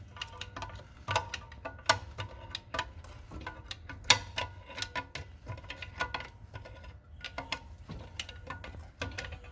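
Ratchet wrench clicking in irregular runs as a long-seized engine is turned over by hand by a flex-plate bolt; the engine is stiff but turning and getting easier.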